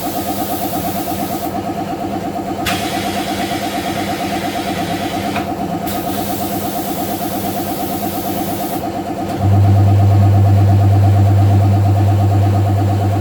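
A machine motor running with a steady, rapid pulsing beat. About nine and a half seconds in, a loud low hum cuts in on top and holds steady.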